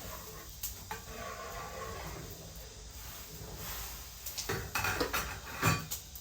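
Kitchen cookware and utensils clattering: scattered clinks, then a quicker run of sharp knocks toward the end, the loudest near the close.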